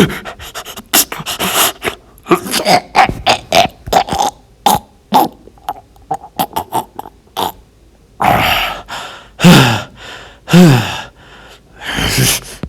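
A fast string of short, sharp hits and clicks, then four loud grunts or shouts, each dropping in pitch: voiced fight effort noises in a cartoon brawl.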